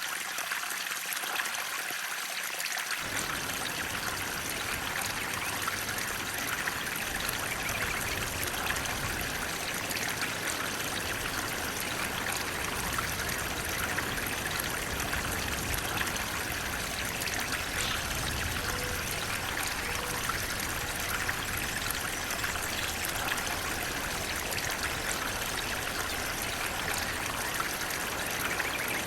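Flowing water, a steady rushing splash with no pauses. A deeper low rumble joins about three seconds in.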